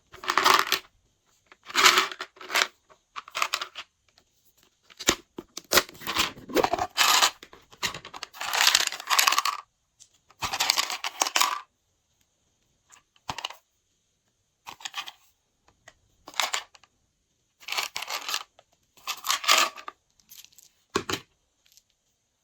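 Glossy slime being squished and stretched by hand, in short irregular bursts with near-silent pauses between them.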